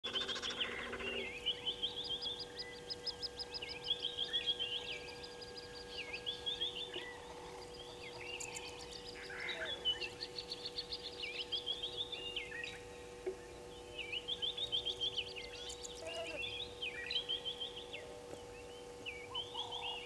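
Wild birds calling: repeated quick series of high chirping notes, a second or two each, several overlapping, over a faint steady hum.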